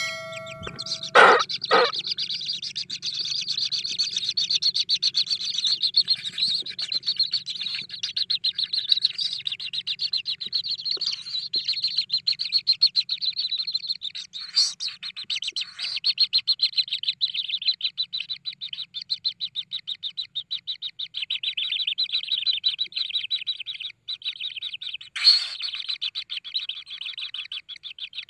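Kingfisher chicks giving begging calls: a continuous stream of rapid, high chirping, broken by a few louder single calls about a second in and again near the end. The calls are a sign of hungry nestlings.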